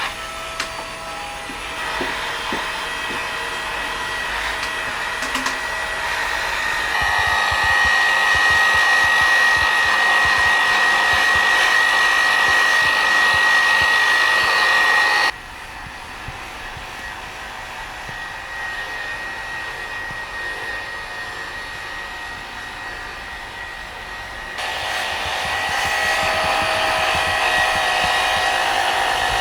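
Electric power tool motor running with a steady high whine. It grows louder about a quarter of the way in, drops off sharply near the middle, then picks up again near the end as the load or speed changes.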